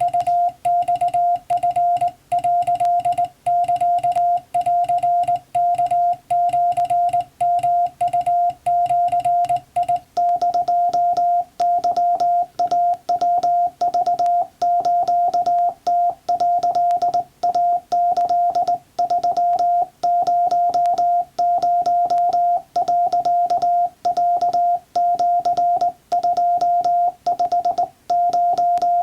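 Morse code sent by hand on a straight telegraph key: a steady sidetone beep keyed into dots and dashes, each mark with the key's sharp contact click. About ten seconds in, a low background hum drops away.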